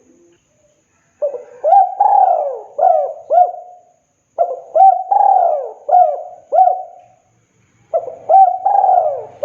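Spotted dove (tekukur) cooing its song: three phrases of several quick coos each, the first starting about a second in. A sharp click near the end.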